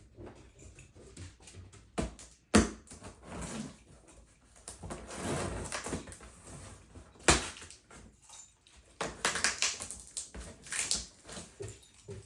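Cardboard box and packaging being handled and opened: several sharp knocks, the loudest about two and a half seconds in, with stretches of scraping and rustling between.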